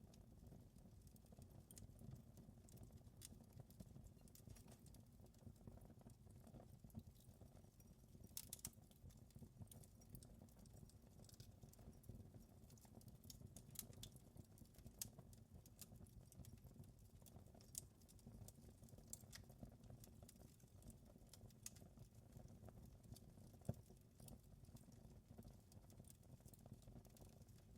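Fireplace fire crackling faintly: irregular small pops and snaps over a low steady rumble, with one sharper pop near the end.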